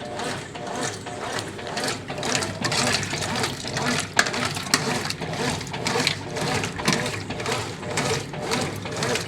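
Brastemp Ative 9 kg top-loading washing machine in its wash cycle: water and clothes churning in rhythmic strokes, with a couple of sharp clicks about four seconds in.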